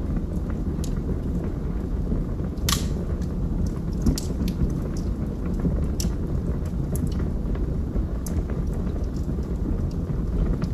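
Wood logs burning in a fireplace: a steady low rumble of flames with scattered crackles and pops, one sharper pop a little under three seconds in.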